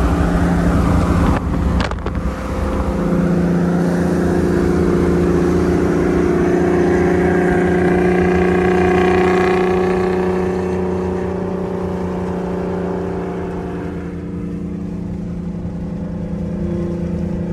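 Big-turbo car engine pulling under acceleration, its pitch climbing steadily over several seconds, then easing off to a steadier, quieter drone in the second half. A brief break with a sharp click about two seconds in.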